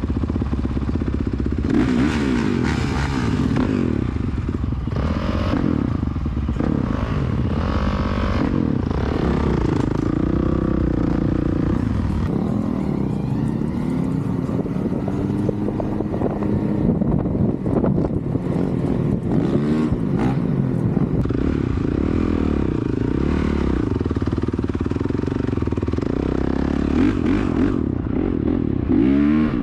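Dirt bike engine being ridden hard, its pitch rising and falling again and again as the throttle is worked and gears change.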